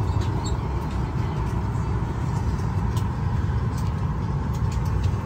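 Steady low rumble of airport terminal background noise, like a large engine or ventilation running, with a few faint ticks.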